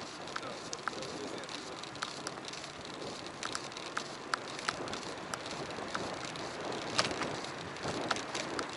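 A bicycle rolling along a road, recorded by a camera on the bike: a steady hiss from the tyres and wind, with irregular small clicks and rattles.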